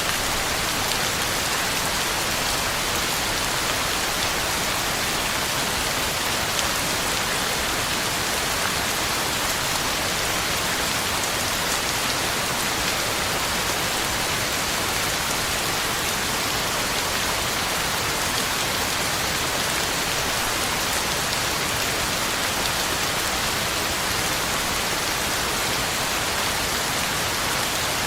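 Heavy rain falling steadily, an even hiss of drops on the ground and leaves with no thunder or change in strength.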